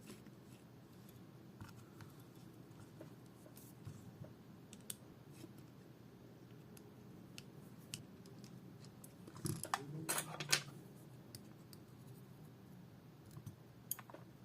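Scattered small metallic clicks and ticks of a Y-type screwdriver working the tiny back-cover screws of a Samsung Gear S3 Classic smartwatch, with a brief cluster of sharper clicks and scraping about ten seconds in.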